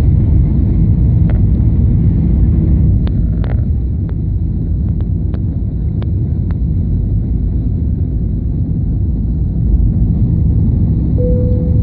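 Airliner cabin noise on approach: a loud, steady, low rumble of engines and rushing air. A few sharp clicks or rattles come in the first half, and a short steady tone sounds near the end.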